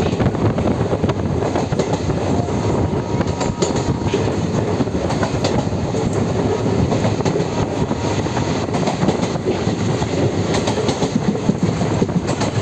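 Train running along the track: a steady rumble with frequent, irregular clicks of the wheels over the rails.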